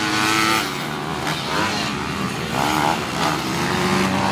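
Several pit bike engines revving hard, their pitch rising and falling as the riders change gear and throttle through the lap.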